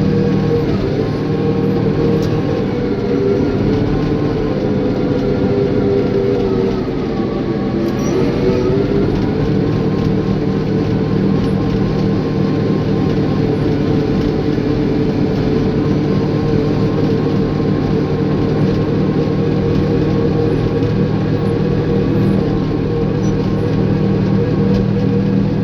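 Caterpillar bulldozer's diesel engine running steadily under load. Its pitch dips briefly about seven seconds in, then picks back up.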